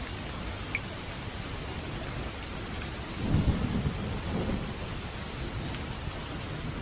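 Steady rain falling on a roof, with a rumble of thunder swelling about three seconds in and fading over the next two seconds.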